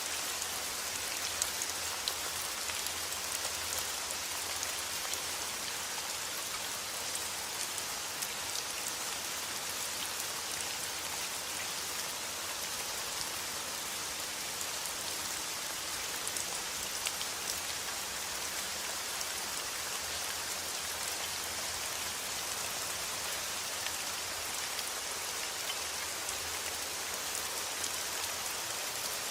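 Steady rain falling: an even hiss with scattered sharper drop ticks, unchanging throughout.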